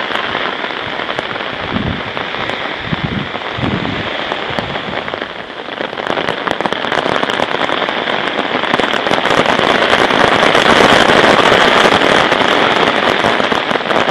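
Rain falling, a dense pattering crackle of drops that grows louder through the second half.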